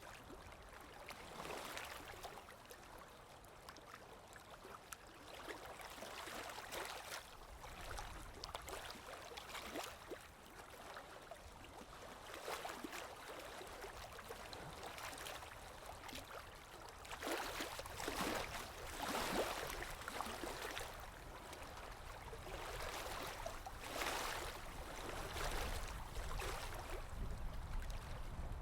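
Running water gurgling and splashing unevenly, in swells that come and go; the splashes grow louder in the last third.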